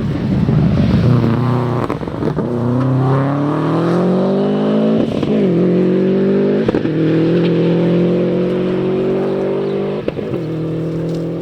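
Four-wheel-drive rally car engine accelerating hard through the gears. The pitch climbs and drops sharply at each of four upshifts.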